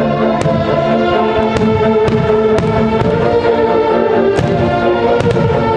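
Music with long held notes, with firework shells bursting over it: sharp cracks about every half second to a second.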